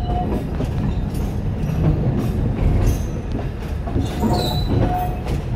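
Narrow-gauge Alishan Forest Railway hinoki-wood train running slowly, heard from on board: a steady rumble of wheels on the track with clicks and clacks over the rail joints.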